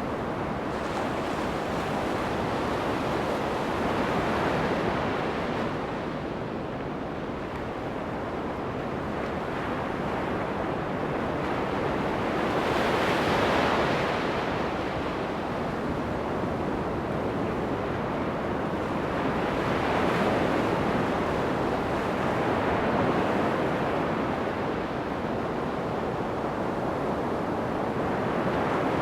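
Ocean surf breaking on a sandy beach: a continuous wash that swells and falls back as each wave breaks, loudest about 13 seconds in and again near 20 seconds.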